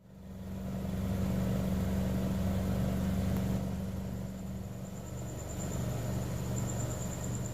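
A 2018 Honda Civic hatchback's engine running at a steady idle. Its low tone shifts lower about halfway through.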